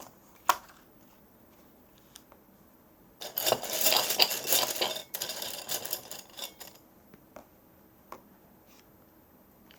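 Small hard objects rattling and clattering together for about two seconds, with a single sharp click shortly before and a couple of faint clicks afterwards.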